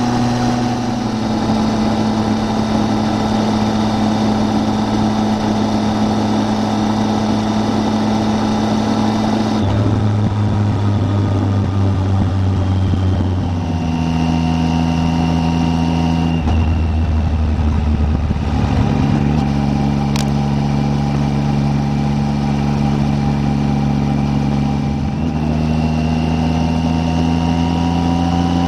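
Triumph Tiger 800's three-cylinder engine running on the move. Its note holds steady, then jumps to a new pitch several times as the gears change, and climbs near the end as it accelerates.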